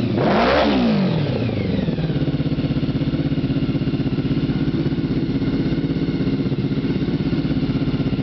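Honda VFR750 V4 engine through a custom exhaust: one quick throttle blip right at the start, falling back to a steady, evenly pulsing idle for the rest.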